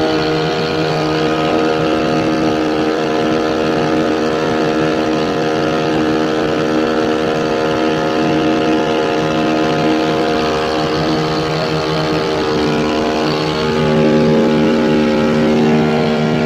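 Small boat's engine running steadily at speed after a tune-up. About fourteen seconds in it gets a little louder and its pitch shifts.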